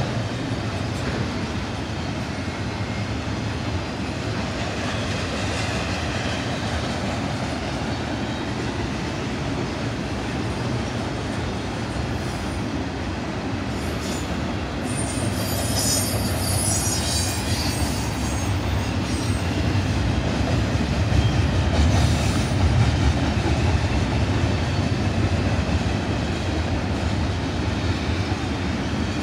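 Double-stack intermodal freight cars rolling past at track side, a steady rumble of steel wheels on rail. Midway a high metallic squeal rises and fades over several seconds.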